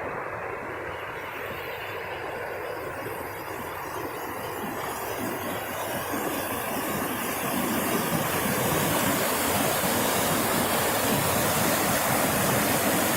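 Rushing water of a flooded creek and waterfall, a steady noisy rush that grows louder through the second half.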